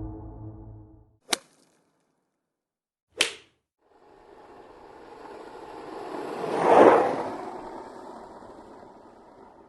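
Stock sound effects one after another: the fading tail of a ringing tone, then two sharp whip cracks about two seconds apart, then a long whoosh that swells to a peak and dies away.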